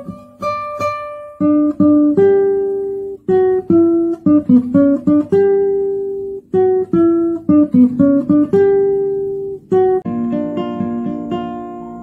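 Background music: a guitar picking out a slow melody note by note, closing on a chord about ten seconds in that rings and fades away.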